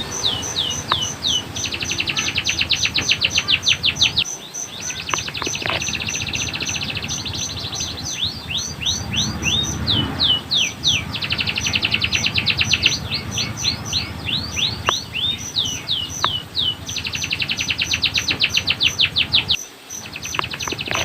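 Canary singing: bursts of quick sweeping chirps alternate with long, very rapid rolling trills, several times over. A steady row of short, high pips, a few a second, runs behind the song.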